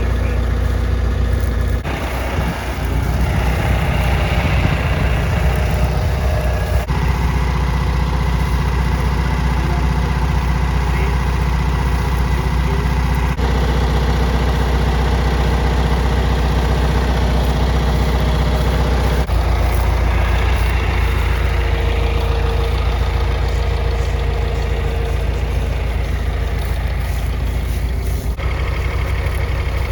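Tractor engine running steadily with a low drone, its sound changing abruptly several times.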